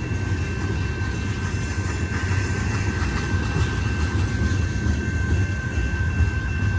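Freight cars rolling past: a steady low rumble of steel wheels on the rails, with a thin steady high tone above it.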